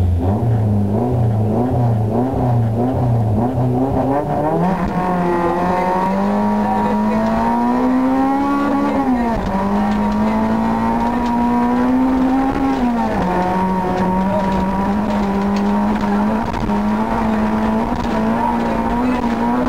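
Honda Civic rally car's engine heard from inside the cabin. For the first few seconds the revs rise and fall about twice a second, then the engine pulls hard with its pitch climbing. Upshifts come about nine and about thirteen seconds in, after which it runs steadily at high revs.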